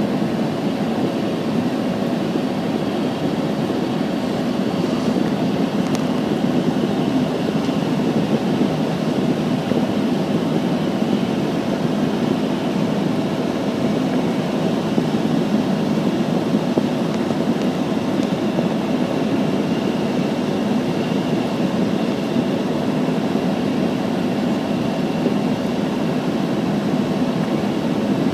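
Steady low rumble of vehicle engine and road noise, unbroken and even.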